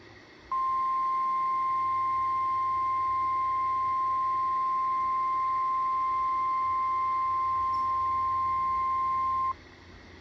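NOAA Weather Radio 1050 Hz warning alarm tone: one steady, unbroken tone lasting about nine seconds that cuts off abruptly, marking the start of a new high wind warning broadcast.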